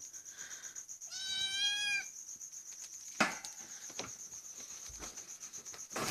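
A domestic cat meows once, a drawn-out meow lasting almost a second. About three seconds in there is a single sharp knock, with a faint steady high whine underneath.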